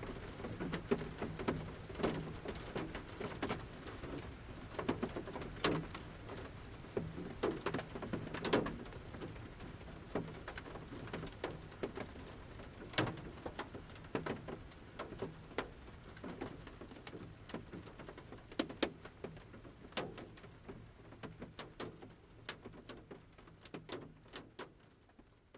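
Large rain drops from the forest canopy hitting the roof of a camper van, heard from inside: scattered, irregular sharp taps over a steady soft patter of light rain. The sound fades out near the end.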